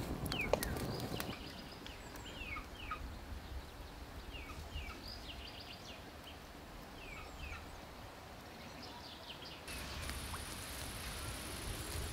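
Small birds chirping, short falling calls often in pairs, repeated throughout, with a few crackles from a wood fire in the first second or so. A steady high hiss, like insects, sets in near the end.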